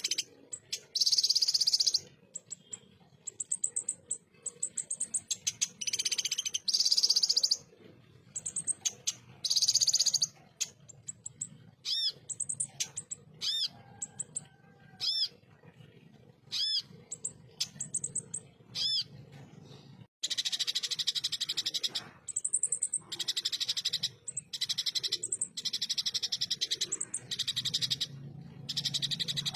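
A konin (kolibri ninja sunbird) singing its rough, rapid-fire 'tembakan' song: dense high-pitched trills in bursts of one to two seconds, broken up in the middle by a string of separate, sharp arching notes.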